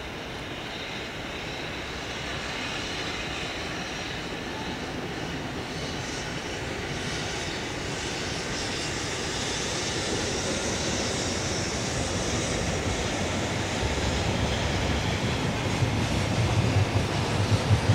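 Container freight train hauled by an EF65 electric locomotive crossing a concrete railway bridge, a steady rumble and hiss growing louder as it comes closer. From about 14 seconds in a heavy low rumble builds, with the wheels starting to clack over the rail joints near the end.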